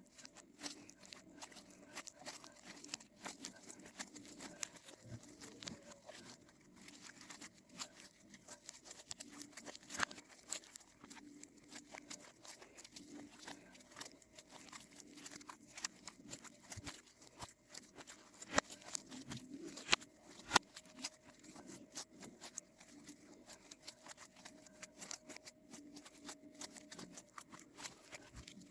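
Slime being squeezed and worked by hand, giving a steady run of small clicks and crackles, with a few louder snaps about two-thirds of the way through.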